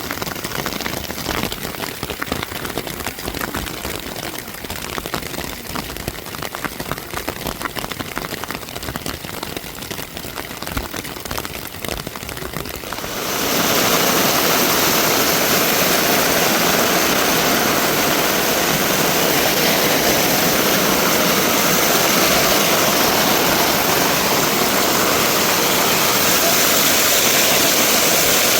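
An uneven, crackling hiss for about the first half, then a sudden switch to a louder, steady rush of fast-flowing water, a swollen stream or waterfall.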